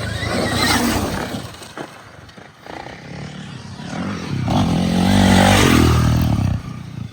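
Dirt bike engine running. It grows to its loudest about five seconds in and then eases off.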